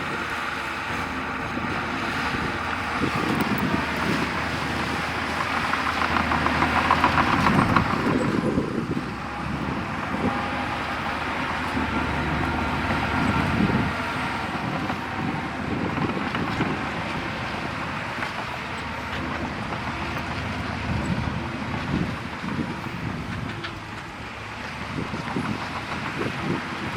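Crawler bulldozer's diesel engine running under load as it pushes soil, swelling louder for a couple of seconds about six seconds in.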